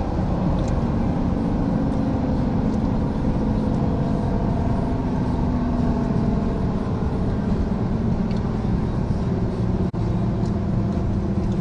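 Steady road and engine noise of a vehicle driving on a freeway, a continuous rumble with a low hum and no sharp events.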